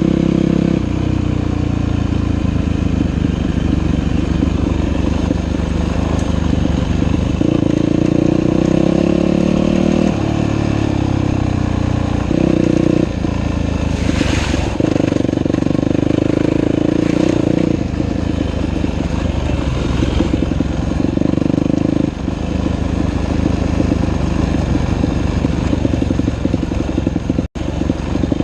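Dirt bike engine running under way on a trail, its pitch shifting up and down in steps every few seconds as the throttle and gears change. The sound drops out for an instant near the end.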